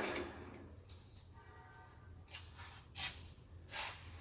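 Faint clinks and knocks of metal oil filter wrenches and hand tools being handled: a sharp click at the start, then two knocks near the end, over a low steady hum.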